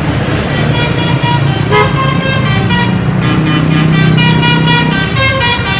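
Multi-tone bus horn sounding a run of short notes at changing pitches over a bus engine's steady low running.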